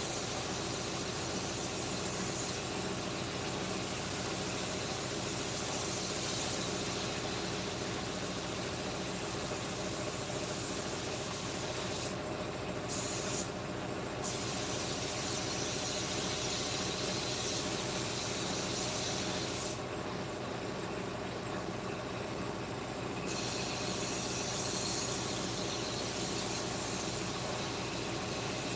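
A workshop machine running with a steady hum and a hiss over it. The hiss cuts out briefly twice and then for a few seconds, while the hum keeps going.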